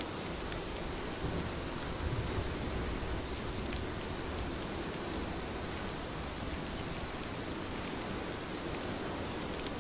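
Heavy rain falling steadily, with a low rumble swelling briefly about one to three seconds in, likely distant thunder.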